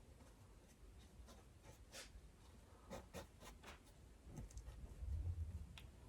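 Paintbrush dragging acrylic paint across canvas: faint, scattered scratchy strokes.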